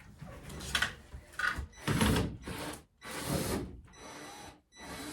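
Tool work on the old wooden chicken roost as it is being taken down: a series of short noisy bursts, about one every half second to a second, the longer ones near the end.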